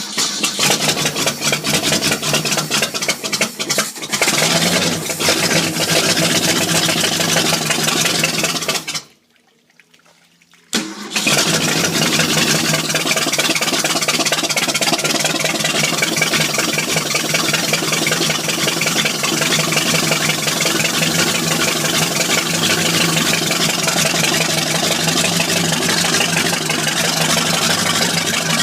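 1977 Ski Nautique inboard engine starting for the first time after a rebuild: it catches and runs unevenly for about nine seconds. It goes quiet for about two seconds, then runs steadily.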